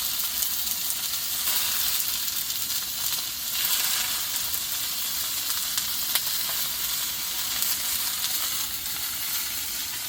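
Waterfall rushing, a steady hiss of falling water.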